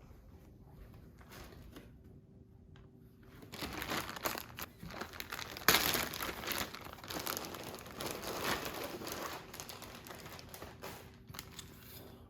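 Packaging being handled and opened, crinkling and rustling, starting about three seconds in, loudest a little later, then dying down near the end.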